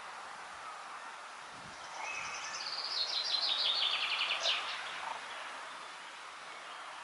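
A songbird sings one phrase of about three seconds: a fast trill of short high notes stepping down in pitch and ending in a brief flourish. Under it runs a steady outdoor background hiss.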